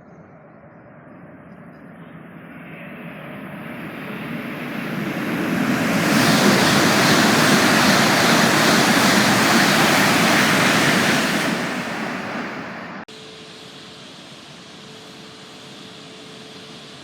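Joetsu Shinkansen train passing through the station at speed: a rushing noise builds over several seconds, stays loud for about five seconds, then fades. It cuts off abruptly near the end and gives way to a quieter steady background with a faint hum.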